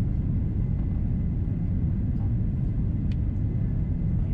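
Steady low rumble of airflow and engine noise inside the cabin of an Airbus A330-343 airliner on descent, its Rolls-Royce Trent 700 engines at approach power. A faint click about three seconds in.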